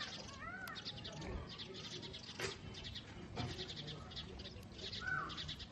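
A group of small cage birds chattering continuously with rapid high twittering, with an occasional louder arching chirp.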